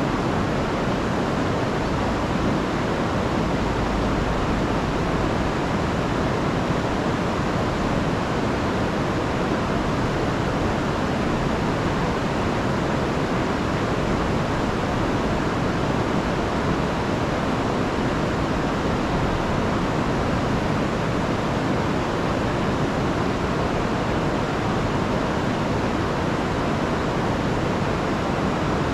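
Rain-swollen river rushing over a waterfall, a steady full roar of water with no breaks.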